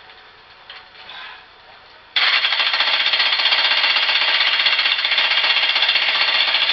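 A few faint clicks, then a jackhammer starts abruptly about two seconds in and runs steadily at full hammering rate.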